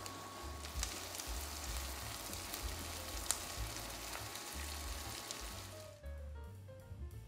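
Food sizzling and crackling as it fries in hot oil in a pan, with sharp pops now and then; the sizzle stops about six seconds in, leaving background music.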